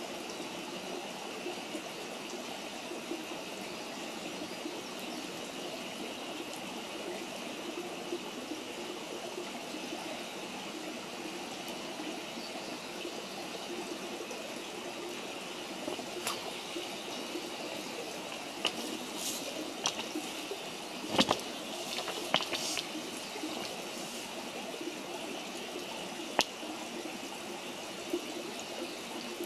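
Wood campfire burning with a steady rushing hiss. Scattered sharp pops and crackles come in the second half, the loudest a little past the two-thirds mark.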